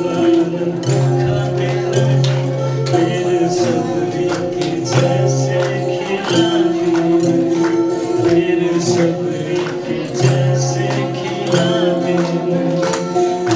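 Live band music in an instrumental passage: sustained chords over bass notes that change every second or two, with a steady beat of jingling percussion strokes.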